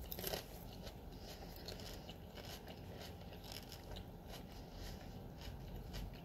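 A person chewing a mouthful of buttered popcorn and green grape, with faint, irregular crunching and small clicks, a little stronger at the start.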